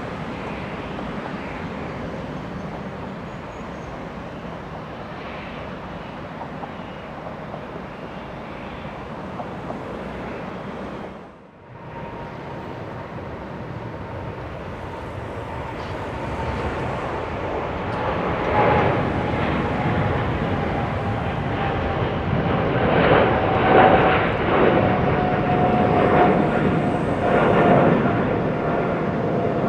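Jet airliner engines, a steady roar that breaks off briefly near the middle. A second aircraft then grows louder as it comes close, its rumble rough and gusty, with a thin engine whine that slowly falls in pitch.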